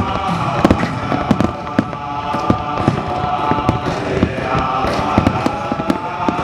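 Fireworks bursting in quick succession, many sharp bangs of varying loudness, several a second, with no pause.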